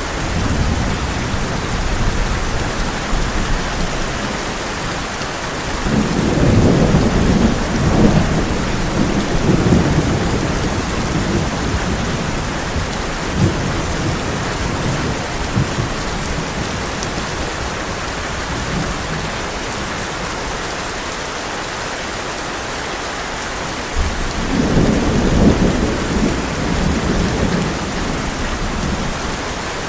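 Heavy rain falling steadily on a tin roof, with rolling thunder rumbling twice: a long roll from about six seconds in and another near the end.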